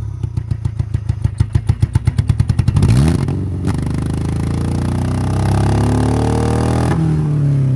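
Honda Civic four-cylinder engine running rough on one cylinder, first chugging in separate firing pulses that come faster and faster as it picks up speed, then catching into a steadier run that revs up and falls back near the end.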